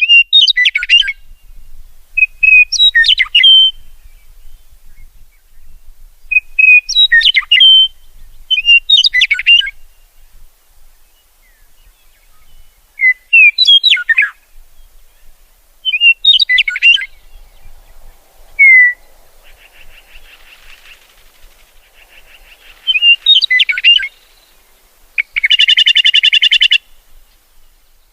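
A songbird singing short, quick, whistled phrases that sweep up and down, repeated every two to three seconds, with a harsh buzzy note of about a second and a half near the end.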